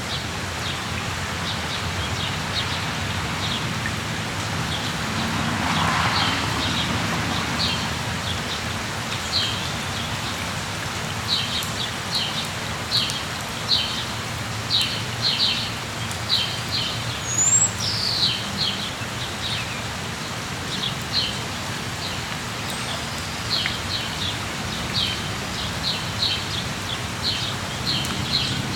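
Steady rain falling, with birds chirping in runs of short, quick calls and one higher whistled call near the middle. The rain swells briefly louder about six seconds in.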